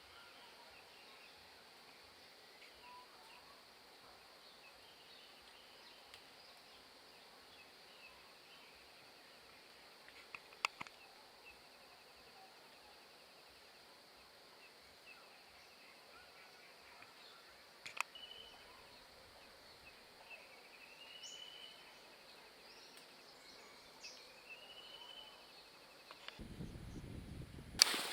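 Quiet outdoor ambience: a steady high insect hiss with a few chirping bird calls in the second half, and two sharp clicks. Near the end comes a burst of rumble and noise.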